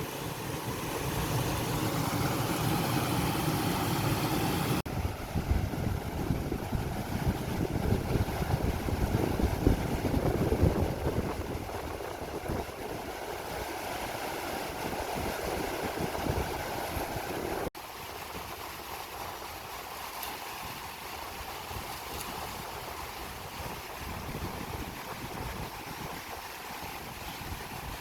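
Rushing river water in monsoon flood, a steady hiss with gusts of wind buffeting the microphone, strongest in the first half. The sound changes abruptly twice, at about 5 s and at about 18 s, then settles into a quieter steady rush.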